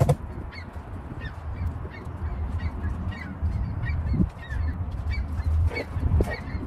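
Short honking bird calls repeated about two or three times a second, over a low wind rumble on the microphone, with a sharp knock right at the start.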